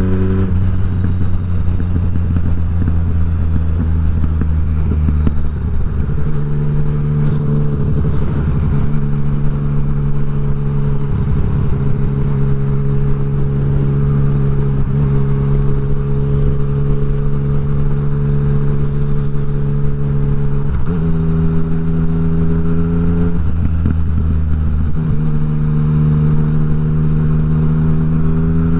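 Yamaha MT-09 three-cylinder engine running through an Akrapovic exhaust with the dB killer removed, held at steady revs for long stretches. The pitch changes step-wise a few times and rises near the end.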